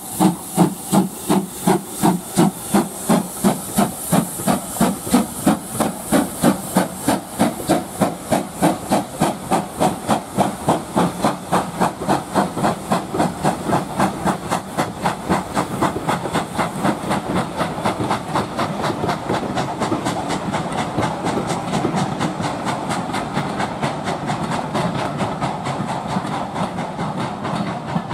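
Steam locomotive pulling away, its exhaust chuffing in regular beats that quicken as it gathers speed, with steam hissing at first.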